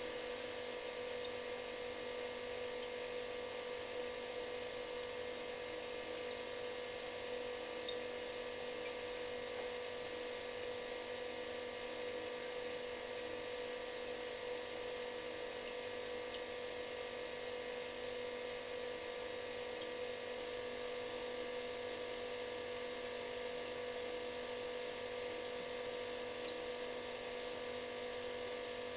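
Refrigerator running with a steady buzz: a strong hum around 500 Hz with several fainter tones above it and a soft hiss.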